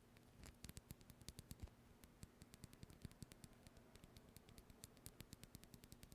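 Quick, irregular light clicks and taps, several a second, made by handling or tapping a small object.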